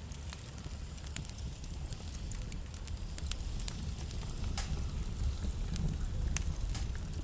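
Wood fire burning in a fireplace: logs crackling with frequent, irregular sharp pops over a low, steady rumble.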